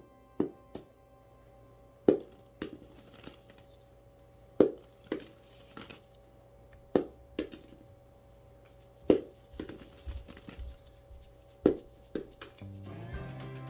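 Rubber bouncy ball dropped and bouncing, a sharp hit followed by a smaller rebound about every two and a half seconds. Faint background music runs underneath and grows louder near the end.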